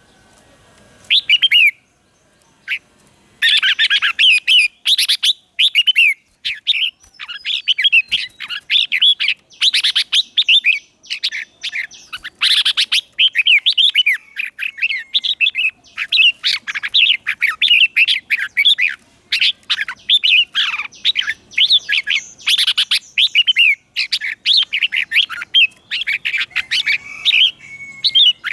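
Red-whiskered bulbul singing: a long, quick run of chattering, warbling phrases with short breaks, the decoy song used to call in wild bulbuls.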